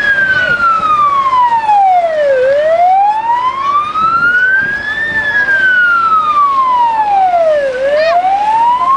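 A siren wailing, its pitch falling and rising in slow sweeps of about five seconds each.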